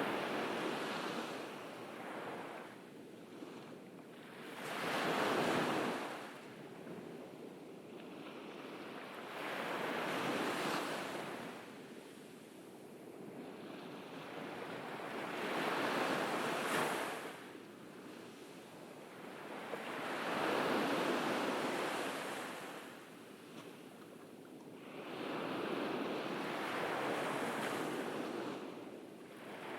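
Calm ocean waves breaking on a beach and washing up the shore, each wave rising and falling away, about one every five seconds.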